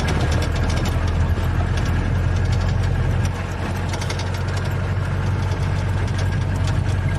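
Safari vehicle's engine running steadily with a low hum and a rapid fine ticking, dropping slightly in level a little after three seconds.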